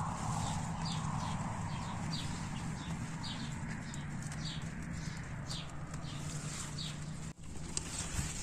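A small bird chirping repeatedly, short high falling notes about once a second, over a steady low hum. Near the end, after a cut, crisp rustling of leaves being handled.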